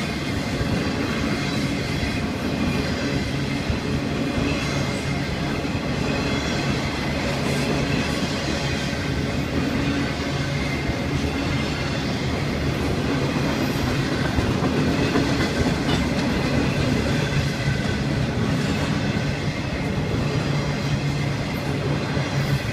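Florida East Coast Railway intermodal freight cars rolling past, their steel wheels running steadily on the rails.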